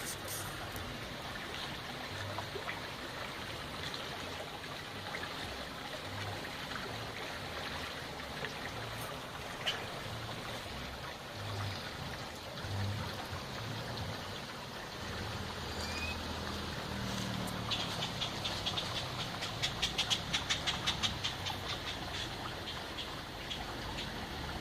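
River water rushing steadily, with a faint low rumble coming and going and a fast run of sharp ticking notes for several seconds about two-thirds of the way through.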